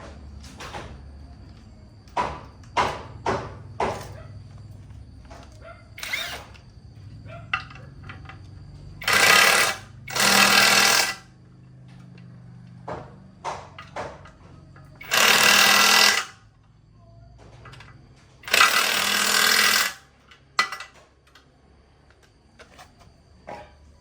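A power tool run in four short bursts of about a second each, between scattered metal clicks and knocks.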